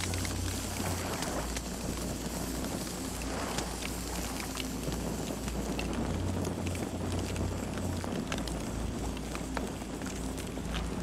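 Campfire crackling, with scattered sharp pops and snaps over a steady hiss and a low rumble.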